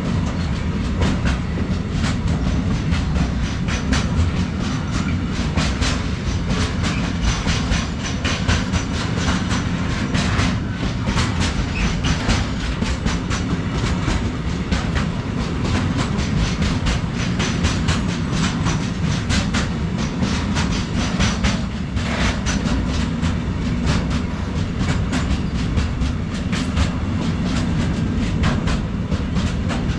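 Freight train passing at steady speed: a continuous low rumble of the wagons with rapid, repeated clicking of wheels over rail joints.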